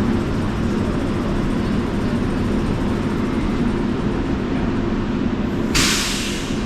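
Airport people-mover tram running with a steady rumble and hum, and a short, sudden hiss about six seconds in.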